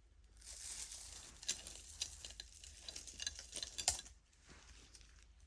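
Costume jewelry being handled: beads and metal pieces of necklaces clicking and clinking lightly against each other and a surface, with one sharper click about four seconds in.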